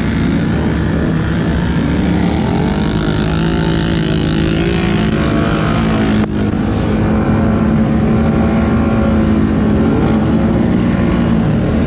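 ATV engines running and revving as the quads are ridden through water to wash off mud. The engine pitch rises and falls, with a brief break about six seconds in.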